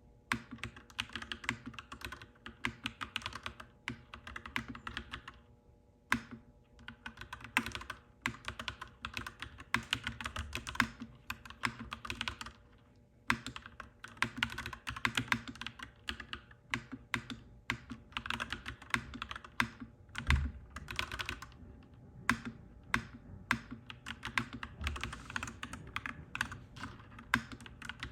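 Clacky mechanical keyboard being typed on in quick runs of keystrokes, with brief pauses between runs.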